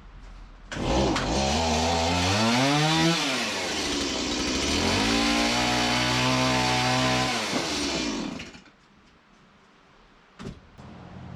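Chainsaw running: it revs up with a rising pitch, drops back about three seconds in, then holds a steady lower pitch while cutting off the end of a board, and dies away about eight and a half seconds in. A short knock follows near the end.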